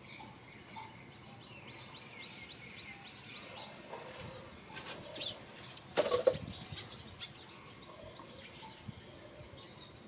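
Small birds chirping on and off, with one short, loud sound about six seconds in.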